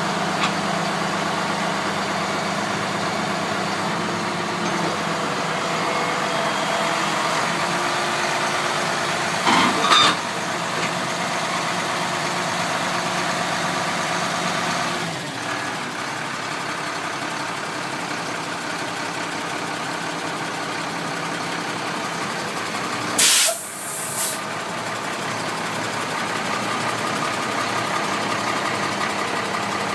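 International DT466 inline-six diesel in a 1993 International 4900 dump truck, idling steadily. Two-thirds of the way through comes a short, loud burst of air hiss.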